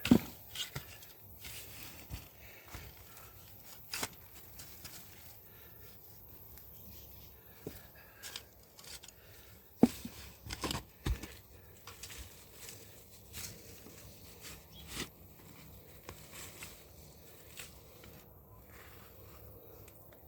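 Scattered scrapes, clicks and rustles of hands and a tool working through garden soil while potatoes are dug up, with a sharper knock just after the start and a few more about ten seconds in.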